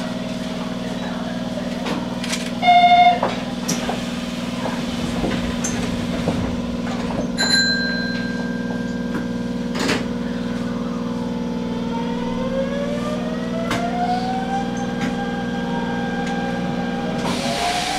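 Electric commuter train standing at a station with its equipment humming steadily, a short loud buzzer tone about three seconds in, then the traction motors whining up in rising steps as it pulls away near the end.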